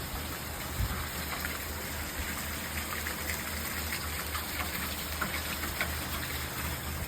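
Steady rain falling, with scattered drips and splashes heard through it.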